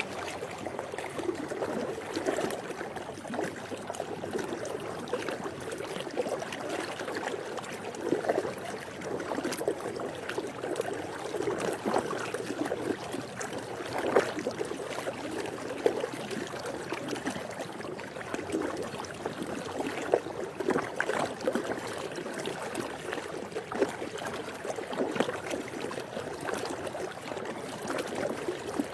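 Swimming pool water lapping and splashing gently, a steady watery wash with small irregular splashes.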